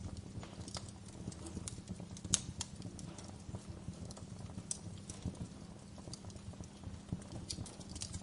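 Wood fire burning in a fireplace, crackling with irregular pops and snaps over a low steady rumble of the flames; the sharpest snap comes a little over two seconds in.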